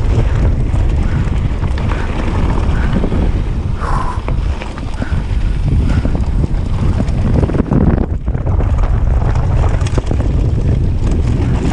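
Heavy wind buffeting the camera microphone, a steady low rumble broken by many short knocks and rattles, as on a moving bike.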